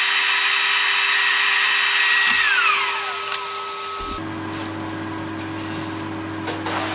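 Power tool's motor running at full speed, then switched off about two and a half seconds in and winding down with a falling whine. From about four seconds a quieter, lower steady hum remains.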